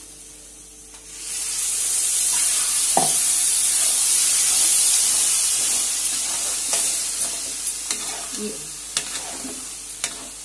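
Spinach purée poured into hot oil and fried masala in a metal kadai, setting off a loud sizzle about a second in that slowly dies down, with the spoon scraping and clicking as it is stirred.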